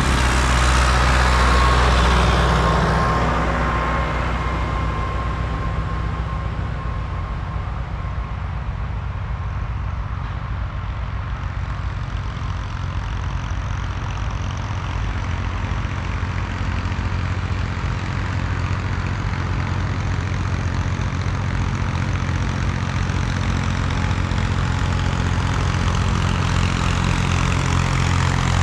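Tractor engines running steadily, louder in the first few seconds and building again near the end as they come closer.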